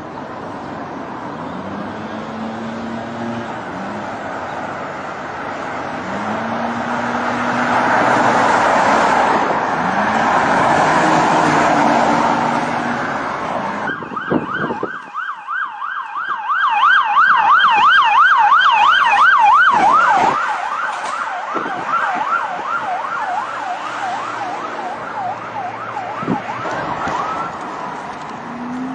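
A car engine revving up several times over heavy road and wind noise. About halfway in the sound cuts to a police car siren in a fast yelp, sweeping up and down roughly three times a second for over ten seconds, with a few knocks, then fading out near the end.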